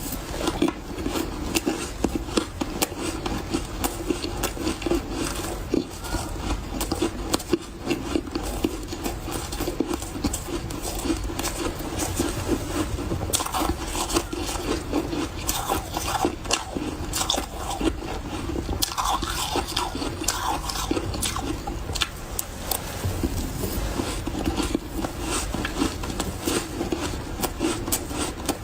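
Refrozen powdery ice being bitten and chewed in big bites close to the microphone: dense, irregular soft crunches that go on without a break.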